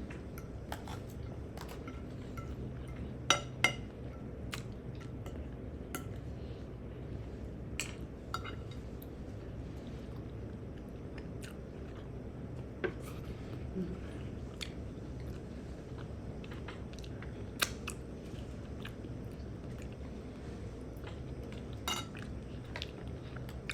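Close-up eating sounds: quiet chewing with scattered sharp clinks of cutlery against a plate, the strongest a few seconds in and near the end, over a steady low hum.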